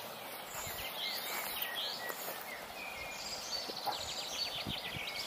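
Small birds singing and chirping over steady outdoor background noise, with a fast run of repeated notes in the second half.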